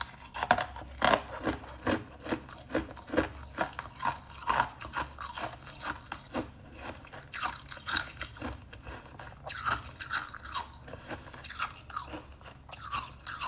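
A person chewing crisp tea crackers with a little frost on top: a run of sharp crunches, two or three a second, that thins out around the middle and then comes back in short clusters.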